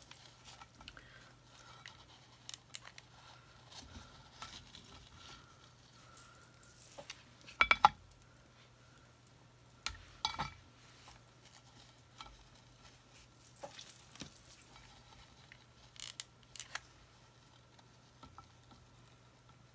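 Artificial flower stems and craft materials being handled on a work table: scattered light rustles and clicks, with sharper knocks about eight seconds in and again about ten seconds in.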